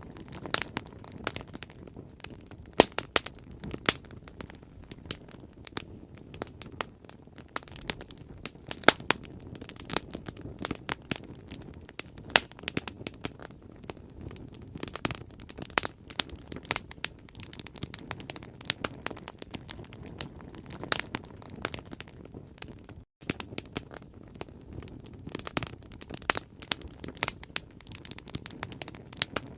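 Wood bonfire crackling: dense, irregular sharp pops and snaps over a low steady hiss of burning, with a momentary gap in the sound about three-quarters of the way through.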